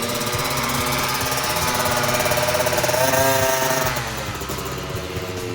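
Motocross bike engine running at high revs, its pitch climbing about three seconds in and then falling away about a second later as the throttle comes off.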